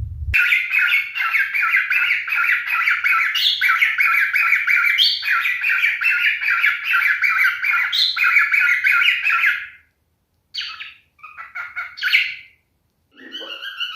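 Pied cockatiel singing a fast chattering warble of about five notes a second, with an occasional upward-sliding whistle. After a short break come a few separate short calls, and near the end a rising tone leads into steady music.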